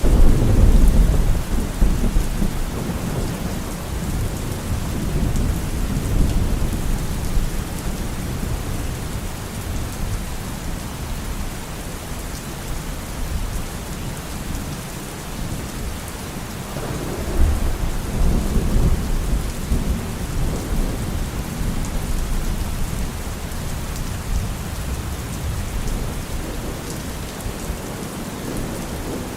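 Steady rain with rolling thunder. One low rumble swells right at the start and fades over several seconds, and a second roll comes about 17 seconds in.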